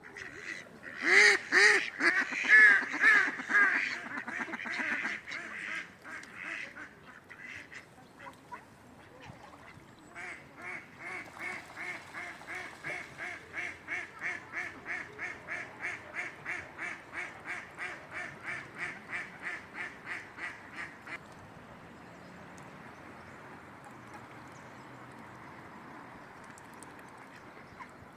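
Ducks quacking: a few loud calls in the first few seconds, then a long run of regular quacks at about three to four a second. Near the end the calls stop and a steady hiss remains.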